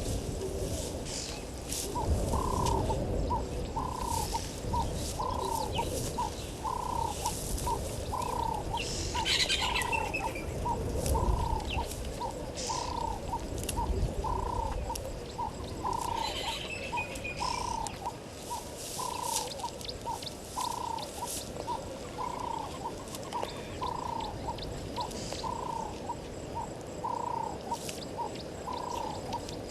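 A bird calling the same short note over and over at an even pace, about three notes every two seconds. Other birds chirp briefly twice in the background.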